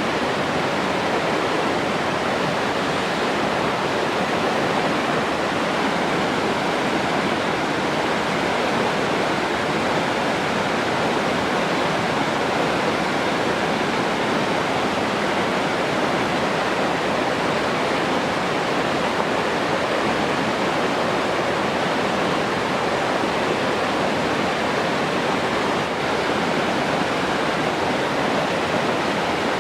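Steady rush of flowing water, an even unbroken noise with no change in level.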